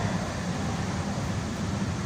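Light rail train running at speed, heard from inside the passenger car: a steady low rumble of wheels and running gear on the track.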